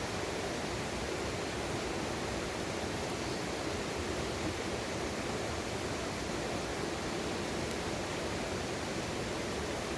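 Mountain valley stream rushing steadily over rocks, an even hiss of running water.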